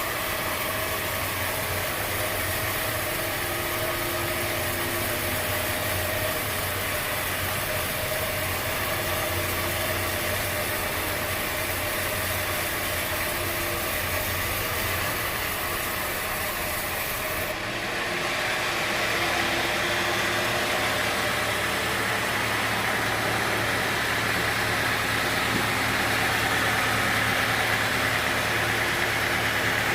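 Machinery running steadily, with an engine-like hum under a wide noise. The sound changes abruptly a little past halfway and is slightly louder after.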